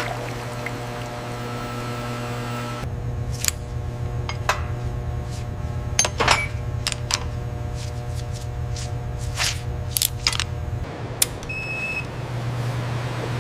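A steady low machine hum with a string of sharp metallic clicks and clinks scattered through the middle, and a short high beep near the end.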